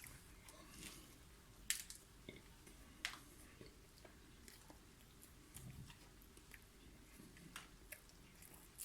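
A person faintly chewing a mouthful of kebab sandwich, with scattered short wet mouth clicks, the sharpest about two and three seconds in.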